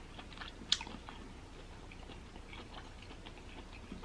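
Faint close-miked chewing of crisp cucumber slices: scattered crunches and mouth clicks, with one sharper crunch under a second in.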